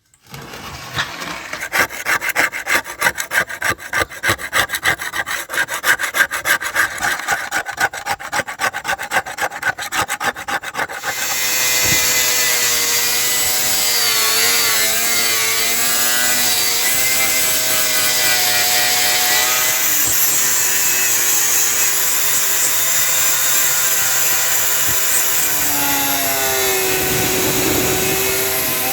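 Rust being scrubbed off heater metal: rapid rhythmic abrasive strokes for the first ten seconds or so, then a power tool running steadily, its pitch wavering as it bears on the metal.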